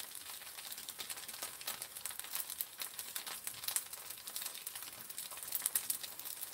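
Thick kimchi pancake with pork frying in oil in a frying pan on a portable gas stove, its heat turned down: a steady fine crackling, with a few louder pops near the end.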